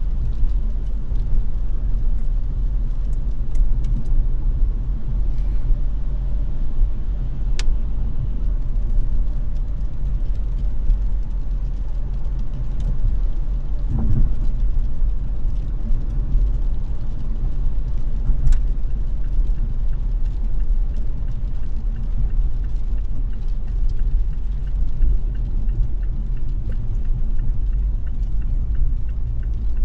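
A car being driven, giving a steady low rumble of road and engine noise. A few sharp ticks stand out now and then, about a third and two thirds of the way through.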